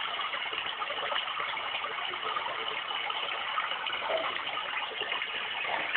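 Avantek white noise machine playing its recorded water sound: a steady, even rushing hiss.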